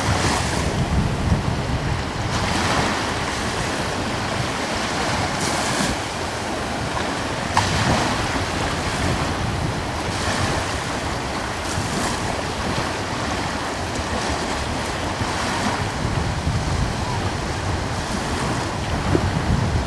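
Gentle ocean waves breaking and washing in every couple of seconds over a steady hiss of surf, with a light breeze rumbling on the microphone.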